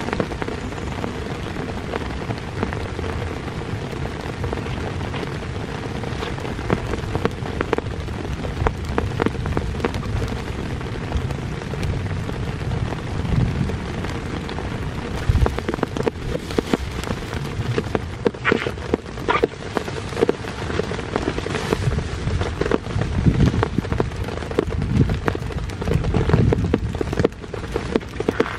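Heavy rain falling steadily, with many individual drops striking close by. The drumming grows heavier in the second half.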